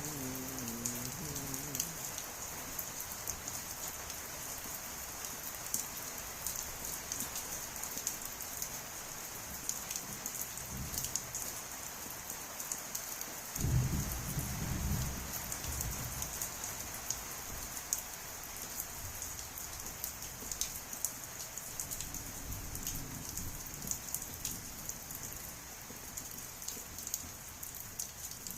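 Heavy rain falling steadily, with many small drops ticking on surfaces. About halfway through, a low rumble of thunder sets in suddenly and lasts about two seconds.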